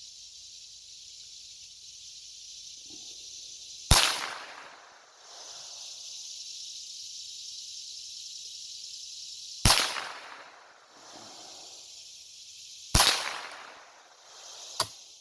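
Three shots from a Ruger 10/22 .22 rimfire rifle, the second about six seconds after the first and the third about three seconds later, each ringing off briefly. Under them runs a steady high buzz of insects.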